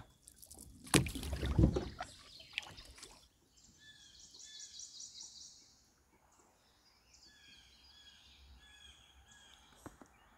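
A few loud knocks and thumps in the first three seconds, then small birds chirping: a buzzy trill, followed by a string of short high chirps.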